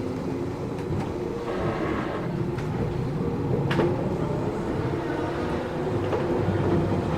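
Running sound of a Matsumoto Electric Railway 3000 series electric train heard inside the passenger car: a steady rumble of wheels and motors, with a few sharp clicks, the loudest about four seconds in.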